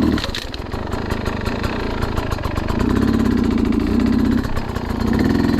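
Enduro dirt bike engine running and revving in throttle bursts: a louder surge about three seconds in that lasts over a second, and another near the end.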